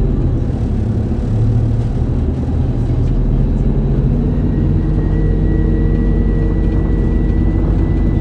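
Running sound of an Isuzu Erga city bus (2DG-LV290N2) under way, heard inside the cabin: a steady diesel engine drone with road noise. A thin high whine joins about halfway through and holds.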